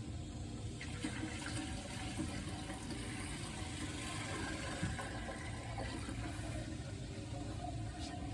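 Water running steadily as a toilet tank is being refilled.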